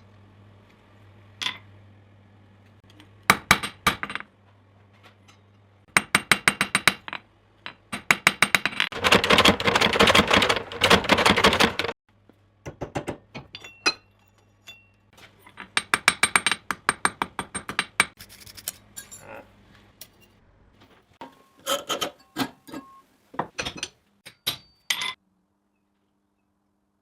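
Hand hammer striking steel on an anvil during forging, in runs of quick, ringing metallic blows with short pauses between them.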